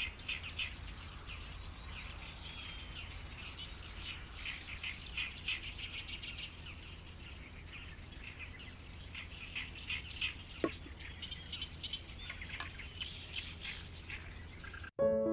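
Small birds chirping in many short, quick calls, with a faint high note repeating about once a second and a steady low rumble underneath. Piano music cuts in abruptly near the end.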